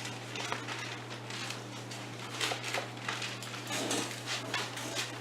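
Thin Bible pages being leafed through and turned, an irregular run of short rustles and flicks, over a steady low electrical hum.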